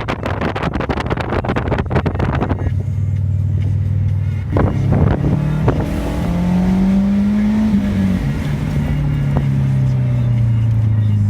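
Subaru car's engine and exhaust on a drive. Rough wind buffeting on the microphone for the first couple of seconds, then a steady low drone that rises in pitch about six seconds in and eases back down.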